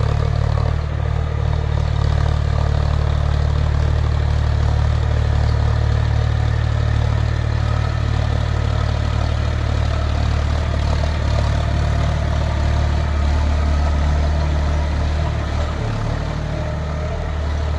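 A tractor's diesel engine running steadily, with a deep, even drone.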